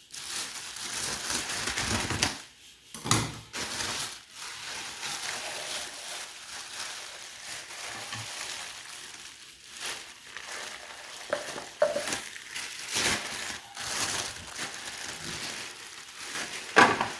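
Meat sizzling in hot fat as it starts to cook, an even hiss with a few sharp knocks of a pan or utensil, the loudest near the end.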